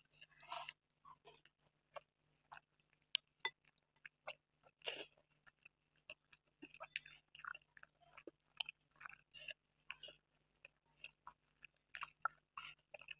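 Close-miked wet chewing and lip smacks of someone eating kheer (rice pudding) from a spoon, quiet and coming in short, irregular bursts.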